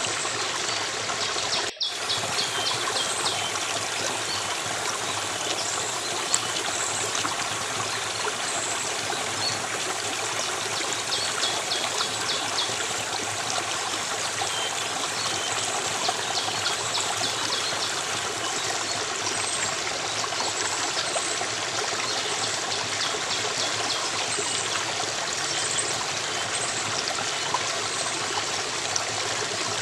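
Stream water flowing and trickling, a steady rushing noise with a brief cut-out near the start. At times there are short runs of rapid high-pitched ticks over it.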